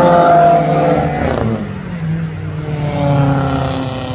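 A car's engine accelerating hard along the street. The note is loud at the start and sinks, then climbs again about three seconds in before dropping away, as if the car is revving through the gears.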